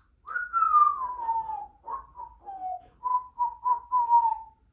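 Congo African grey parrot whistling: one long falling whistle, then a run of short whistled notes at about the same pitch, with a quick string of them near the end.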